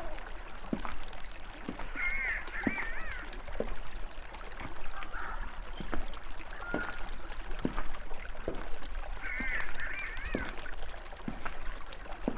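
Birds calling over an outdoor ambience: a short run of wavering calls about two seconds in and again about nine seconds in, with scattered small clicks throughout.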